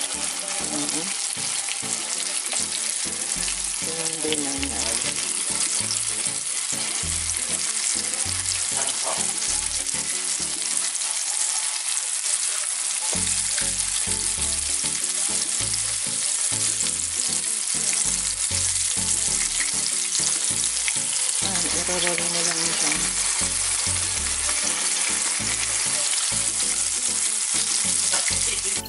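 Breaded chicken strips deep-frying in hot oil in a pan: a steady, dense crackling sizzle as more floured strips go into the oil.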